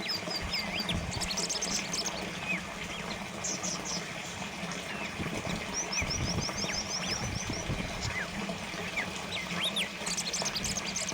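Water trickling steadily, with small birds chirping over it: short high calls throughout and a quick trill of repeated high notes at the start and again around the middle.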